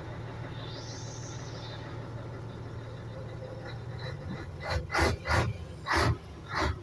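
Car engine idling with a steady low hum, then near the end five quick throttle blips, loud short bursts a few tenths of a second apart. A faint high whine rises and falls about a second in.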